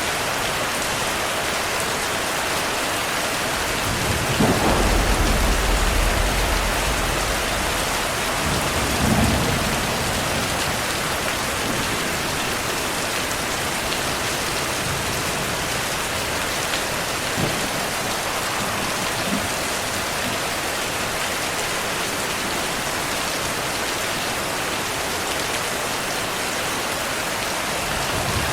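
Heavy, steady rainfall with thunder. A long low rumble of thunder starts about four seconds in, and a shorter one follows around nine seconds.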